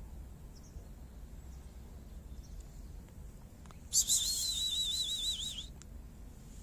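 A bird calling once, about four seconds in: a high warbling note of about a second and a half whose pitch wavers quickly, over a low steady background rumble.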